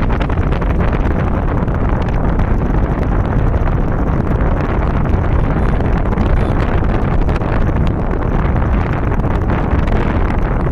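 Loud, steady wind rumble on the microphone, with the road noise of a vehicle on the move underneath.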